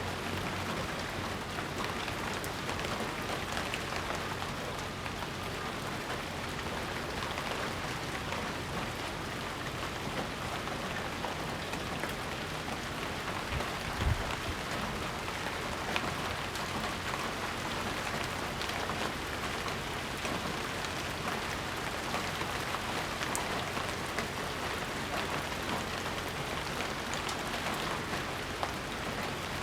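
Steady rain falling in a constant, even patter, with a single brief low thump about halfway through.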